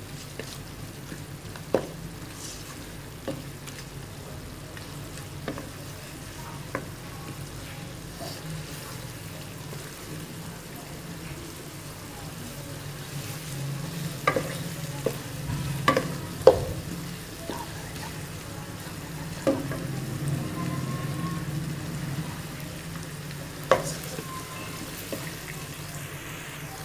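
Chicken frying in oil with onion masala and ginger-garlic paste in a wok, sizzling steadily while a wooden spatula stirs it, with a few sharp knocks of the spatula on the pan.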